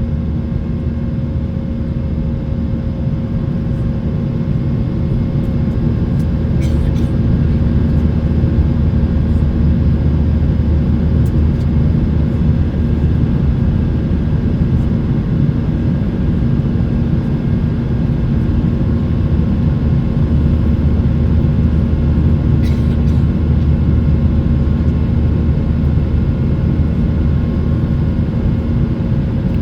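Boeing 737-800 cabin noise: the CFM56 jet engines and airflow make a steady, loud low rumble with a constant hum.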